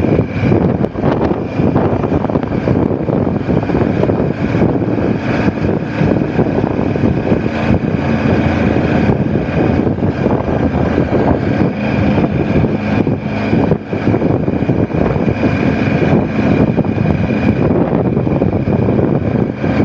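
Motorcycle engine running steadily while riding, its even drone sitting in a rush of noise.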